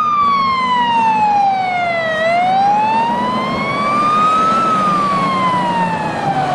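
Fire truck siren wailing, its pitch sliding slowly down and back up about every four and a half seconds, with a low vehicle rumble underneath.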